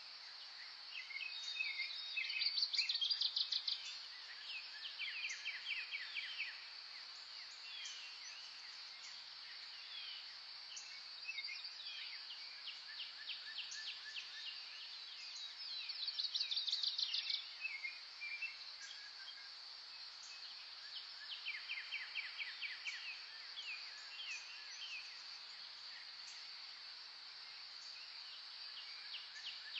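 Wild birds singing, with rapid trilled phrases every few seconds, the loudest about two seconds in and again past the middle, over a steady high drone.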